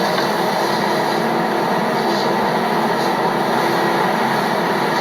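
A loud, steady noise with a constant low hum, unchanging throughout.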